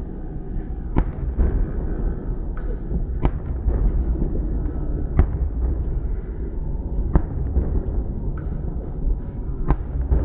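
Fireworks going off: about five sharp bangs, roughly two seconds apart, over a steady low rumble.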